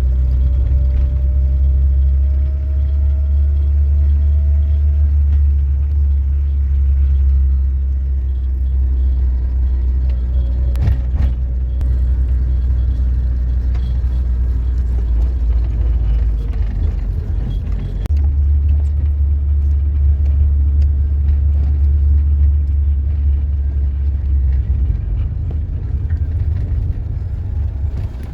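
Car cabin noise while driving: a steady, heavy low rumble of road and engine, easing briefly about two-thirds of the way through.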